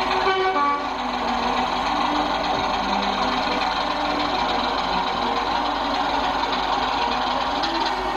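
OO gauge model trains running on the layout: the steady whirr of small electric locomotive motors and wheels rolling over the track.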